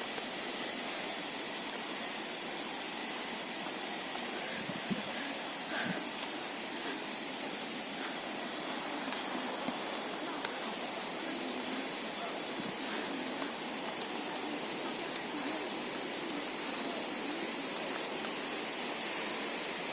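Cicadas droning in one steady high-pitched tone, over a steady background hiss of the forest.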